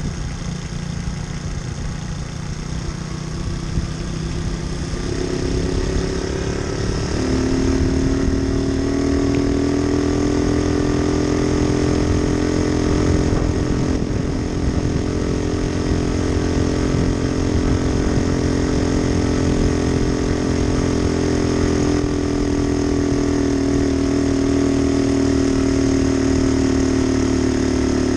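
Moped engine speeding up in two steps, about five and seven seconds in, then running at a fairly steady speed.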